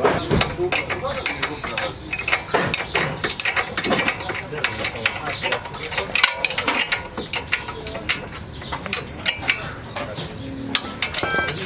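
Metal hand tools working on car parts: rapid, irregular metallic clicking and clatter, close to a ratchet's clicking.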